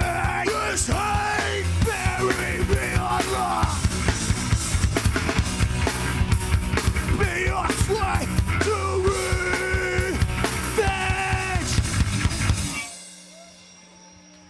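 Hardcore band playing live at full volume: fast, dense drum kit hits under loud distorted guitar. The song cuts off abruptly near the end, leaving only faint amplifier hum.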